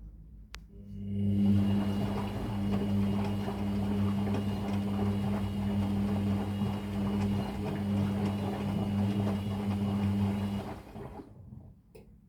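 Whirlpool FL 5065 washing machine running during its softener rinse, a steady mains hum with a rushing noise over it. It starts about a second in and cuts off near the end after some ten seconds.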